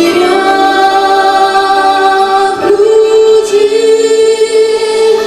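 Solo female voice singing long held notes over musical accompaniment, stepping up to a higher sustained note a little under three seconds in.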